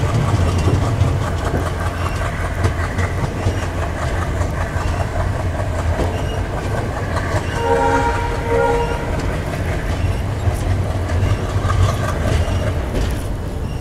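Diesel-hauled passenger train pulling out of a station, heard from a coach doorway: a steady low rumble with wheels clattering on the rails. About eight seconds in, the WDM3 ALCO diesel locomotive's horn gives a short two-part blast.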